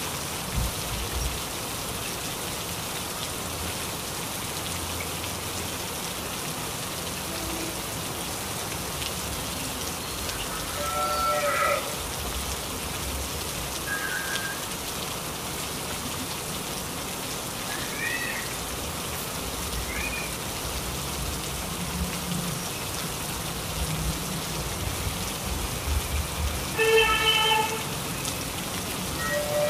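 Steady heavy rain falling and splashing on surfaces, with a few short animal calls over it and a louder bleat near the end.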